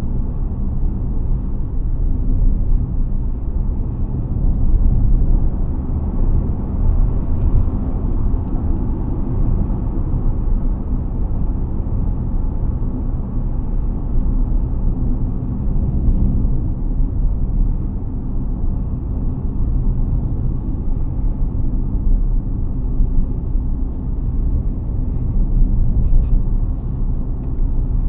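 BAIC BJ30e hybrid SUV on the move: a steady, low road-and-tyre rumble with a faint drivetrain hum underneath.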